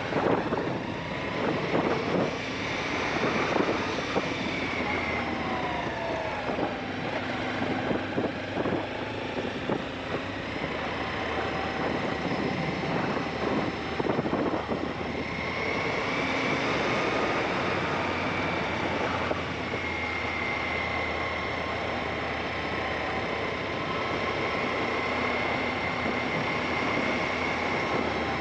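Aprilia Shiver 750's V-twin engine running on the move, its pitch dipping about five seconds in and then rising and holding steady from about halfway, under heavy wind noise buffeting the camera microphone.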